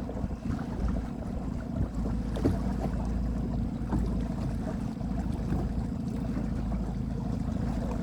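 Boat engine running steadily at low revs, with wind buffeting the microphone.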